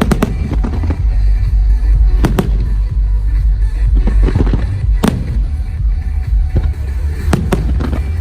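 Aerial fireworks bursting in a string of sharp bangs, the sharpest about five seconds in, over music and a steady low rumble.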